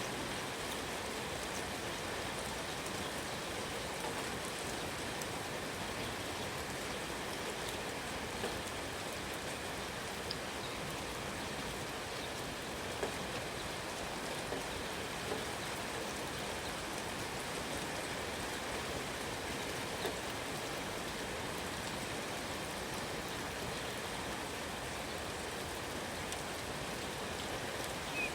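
Steady rain falling, an even hiss with scattered louder individual drops ticking on surfaces.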